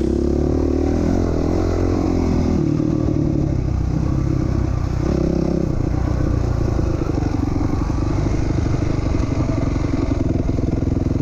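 2007 450R motocross bike's single-cylinder four-stroke engine being ridden round a dirt track, revving up and down with the throttle in the first half and again about five seconds in, then running steadier.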